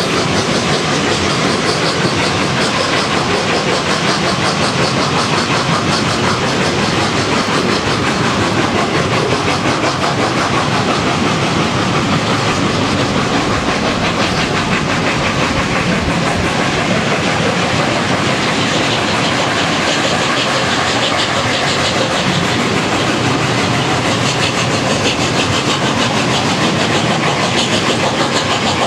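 Train hauled by the A1 Pacific steam locomotive 60163 Tornado running along the line: a steady, unbroken rush of wheel and rail noise.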